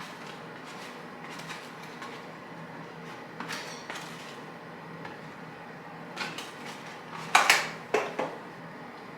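Hard household objects being handled, like dishes and utensils. There are a few light knocks, then a louder run of sharp clatters about seven to eight seconds in, over a steady low hum.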